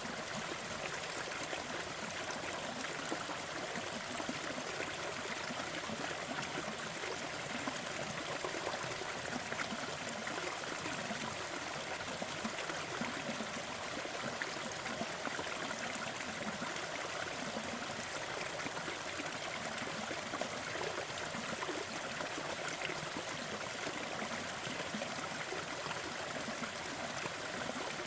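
Waterfall: water splashing and rushing in a steady, unbroken flow.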